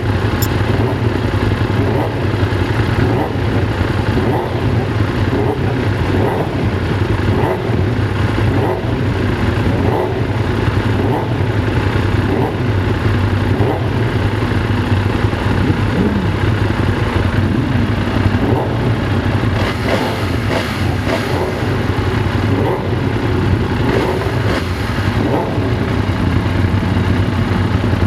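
Benelli Tornado Tre 900's inline three-cylinder engine running steadily at a fairly even speed.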